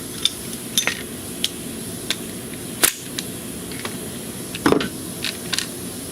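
Scattered sharp clicks and clinks of small metal and plastic car parts and hand tools being handled and set down, the loudest about three seconds in, over a steady low hum.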